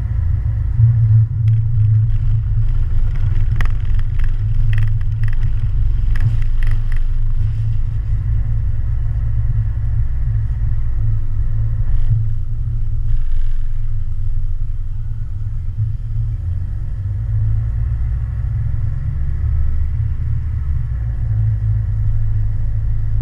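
Steady low vehicle rumble, with a run of short sharp clanks and rattles between about three and seven seconds in.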